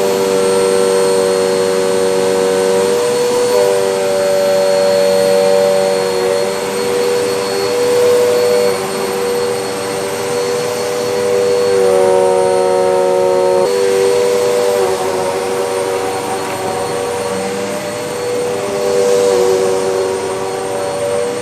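MOOSOO upright pet vacuum cleaner running steadily with a motor whine, its pitch dipping and shifting slightly a few times.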